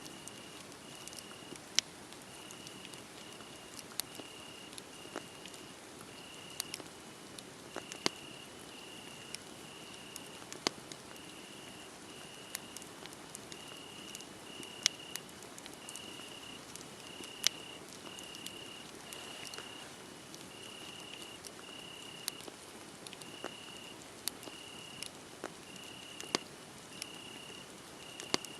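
Wood fire burning with a soft hiss and scattered sharp crackles and pops, while a cricket chirps steadily, a little more than once a second.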